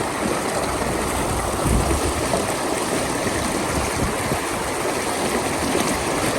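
Floodwater flowing fast after heavy rain, a steady, even rush of moving water.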